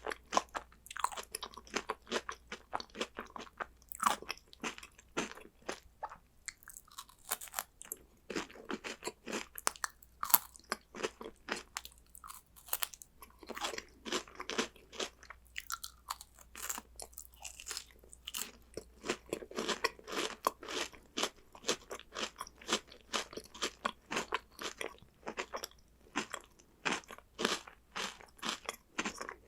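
Close-miked crunching and chewing of crunchy chocolate snacks: dense, rapid crunches with a couple of brief lulls.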